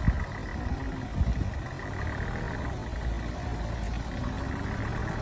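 A heavily loaded sugarcane truck's engine running with a steady low rumble, with two knocks, one at the very start and one about a second in.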